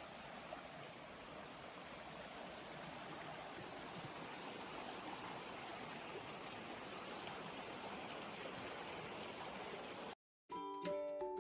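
Steady rushing noise, like running water or wind, slowly growing a little louder. It cuts off abruptly near the end, and music with clear sustained notes begins.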